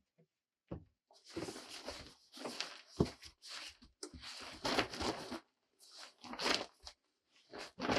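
Irregular bursts of rustling and scraping, each up to about a second long, broken by short silent gaps.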